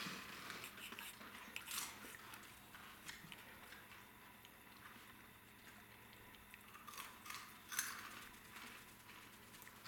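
Faint crunching and chewing of Crunchy Cheetos, with a few sharper crunches, the loudest about eight seconds in.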